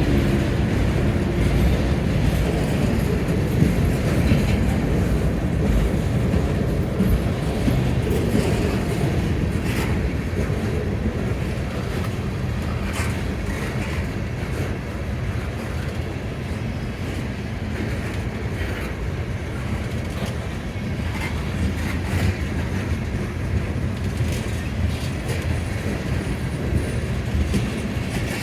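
Florida Gulf & Atlantic freight train rolling past: a steady rumble of the cars, with the wheels clicking over the rail joints.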